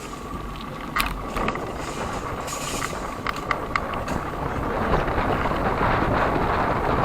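Wind and road rush on the microphone of a moving bicycle, growing louder as it picks up speed, with a few sharp rattling clicks in the first half.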